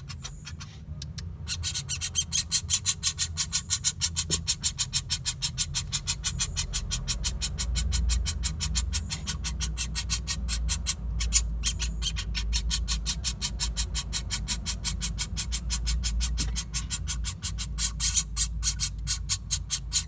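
A pelatuk bawang woodpecker's rapid, repeated sharp call notes, about four a second, with a short pause about eleven seconds in, over a steady low hum.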